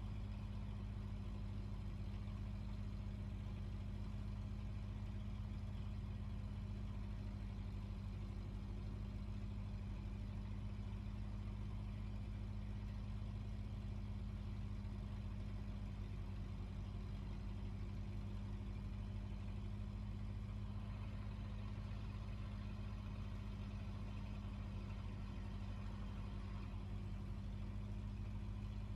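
Fishing boat's engine running steadily with a deep, even hum that does not change in speed.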